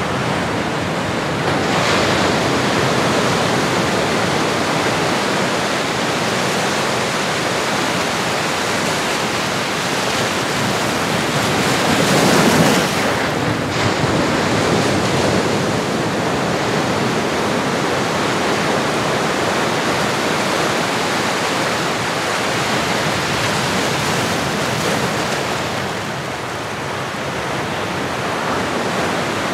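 Ocean surf recording: a continuous rush of waves washing in, with one louder surge about twelve seconds in.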